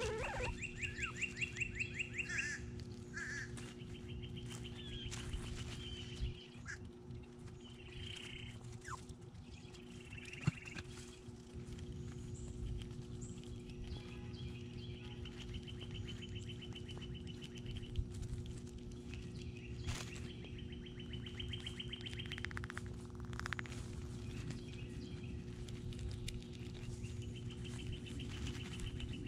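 Songbirds calling: several long, rapid trills of evenly spaced notes, plus a few short chirps, over a steady low hum.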